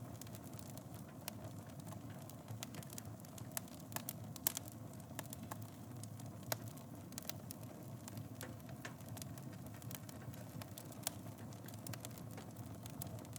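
Fireplace wood fire burning, with a steady low rumble and irregular sharp crackles and pops, a few louder pops scattered through.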